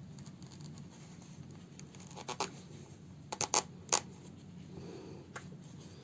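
Handling noises from hand-sewing a fabric house slipper with needle and thread: a few short rustles and clicks between about two and four seconds in, over a low steady hum.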